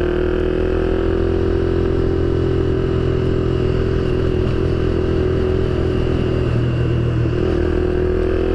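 Motorcycle engine running at a steady pitch while riding, cruising at constant speed, over a steady low rumble.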